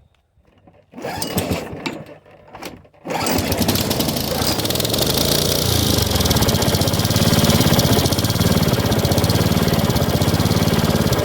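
Honda HRX lawn mower's single-cylinder four-stroke engine pull-started on its newly fitted starter cord: a few seconds of uneven cranking noise, then the engine catches about three seconds in and runs steadily.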